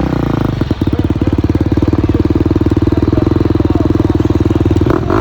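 Dirt bike engine running steadily at low speed close by, a rapid even firing beat that holds one pitch, with a brief break just under a second in.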